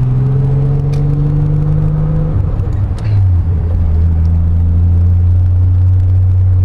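Naturally aspirated Nissan 300ZX (Z32) 3.0-litre V6 accelerating gently, its revs rising steadily for about two seconds. The revs then fall away about two and a half seconds in, and the engine runs steadily at lower revs.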